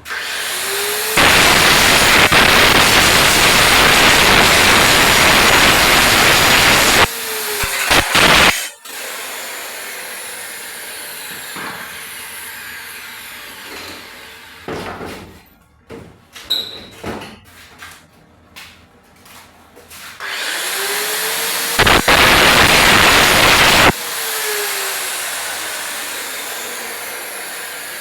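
Handheld electric angle grinder spinning up and running loud under load for about six seconds, then winding down. After a quieter stretch with a few knocks, it spins up again and runs for about two seconds near the end.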